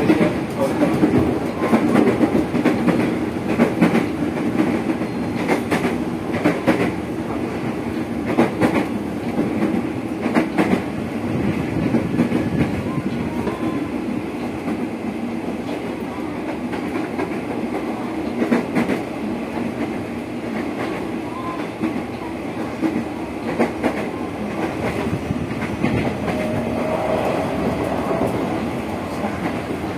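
Running noise heard inside a JR 205 series electric commuter car (motor car MoHa 205-5008) under way: a steady rumble with the clickety-clack of wheels over rail joints, sharp clacks at uneven intervals.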